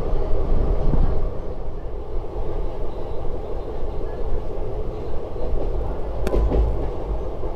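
Passenger train hauled by twin WDP4 diesel locomotives running along the track: a steady low rumble. There is one sharp click about six seconds in.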